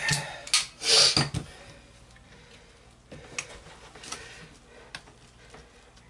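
A few sharp knocks and taps on the musket's barrel wedge as it is worked to free the barrel, loudest and closest together in the first second and a half, then a few lighter taps.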